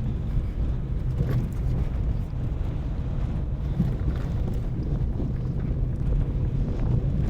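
A car driving over a rough, potholed road, heard from inside: a steady low rumble of engine and tyre noise.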